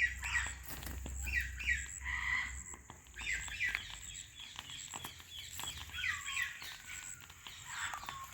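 Alexandrine parrots calling, a string of short chattering calls with a few notes that slide down in pitch near the end, over scattered small clicks.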